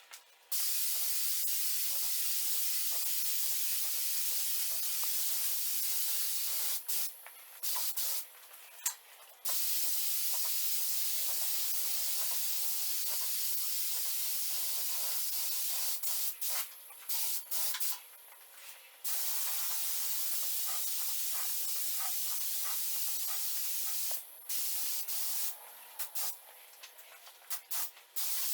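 Paint spray gun hissing as it lays a heavy second coat of metallic charcoal paint. It sprays in long passes of several seconds, with brief pauses where the trigger is let off between passes.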